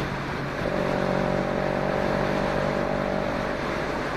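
Motorcycle engine running steadily under way, with wind and road noise; its note changes slightly less than a second in.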